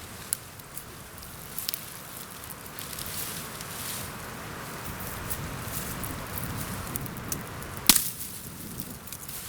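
Pine twigs cracking with scattered small snaps, then one sharp, loud snap about eight seconds in as a branch is broken off, over steady wind in the forest.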